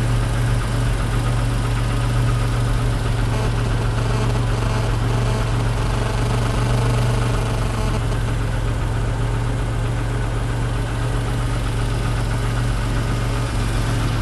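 1991 Chrysler LeBaron's 3.0 V6 idling steadily while warming up after a cold start, having sat unrun for about seven months. It runs quietly, with the valve lifters not much noisier than usual after the long sit.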